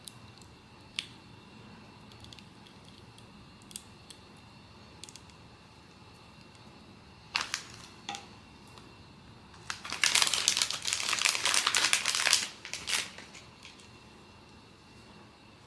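Blind-box toy packaging being handled by hand: a few scattered clicks and taps, then, about ten seconds in, some three seconds of dense crinkling of plastic wrapping, with a last tap just after.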